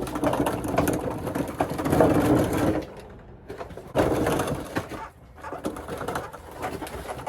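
Rapid mechanical rattling from tool work on a truck driveshaft, in three spells with short pauses, the first the longest and loudest.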